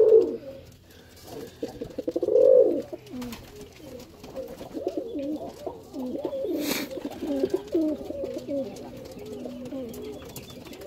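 Domestic pigeons cooing, several birds overlapping in a continual low, gliding coo. A single sharp click comes about two-thirds of the way in.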